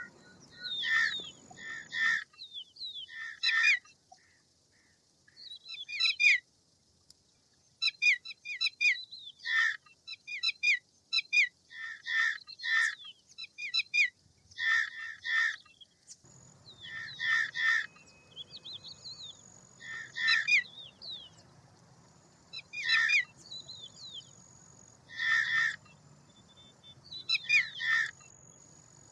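Indian roller giving harsh, rasping chattering calls in bursts of about a second, repeated every two to three seconds.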